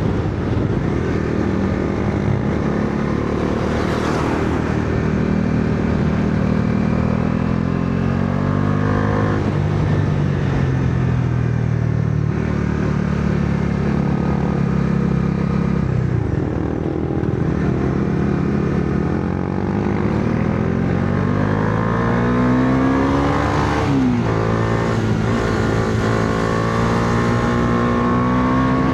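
Bajaj Dominar 400's single-cylinder engine under way, its note climbing with the revs and dropping sharply at gear changes about 9, 16 and 24 seconds in, then pulling up again.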